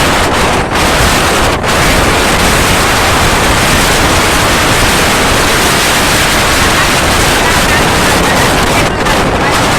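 Loud wind rushing over the microphone: a steady hiss with dips near one and a half seconds in and near the end.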